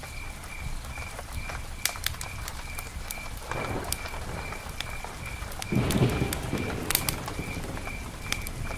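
Rain pattering with the sharp crackles of a campfire, under a high chirp repeating about twice a second. Two brief low sounds come through, one about three and a half seconds in and a louder one about six seconds in.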